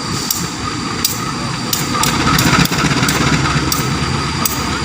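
Diesel train engine running with a steady low rumble that swells a little about two seconds in, over a run of short sharp clicks repeating about every half second.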